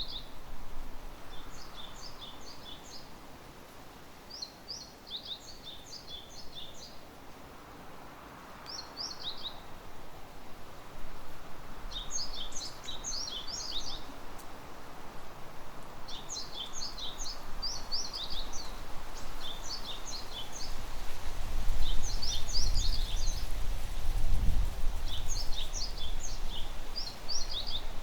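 Small songbirds twittering in a bare winter woodland: clusters of quick, high chirps about every one to two seconds over a steady background hiss. A low rumble swells near the end.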